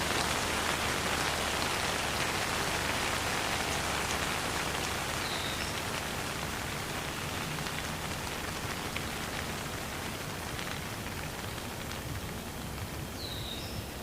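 Steady rain falling with a dense, even patter of drops, slowly growing quieter. Two faint short chirps come through, about five seconds in and near the end.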